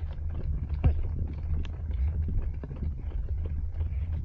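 A runner's footfalls and a steady low wind-and-motion rumble picked up by a body-worn Insta360 GO 3 action camera's microphone while running.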